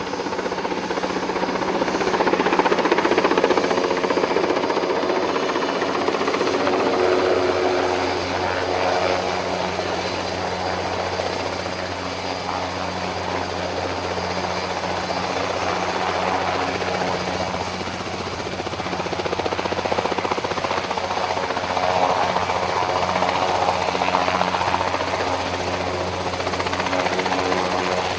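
Helicopter in flight nearby: a steady rotor and engine drone with a constant low hum, swelling and easing in loudness several times.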